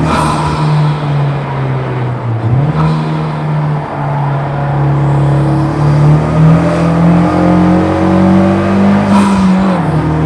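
Honda Civic Type R FK8's turbocharged four-cylinder engine, with bolt-on modifications, running hard on track. Its pitch drops abruptly about two and a half seconds in, then rises slowly as the car pulls through a gear, and drops again near the end.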